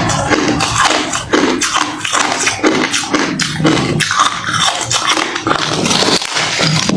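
Close-up crunching of refrozen crushed ice being chewed, with dense irregular cracking of hard ice between the teeth, repeated chew after chew.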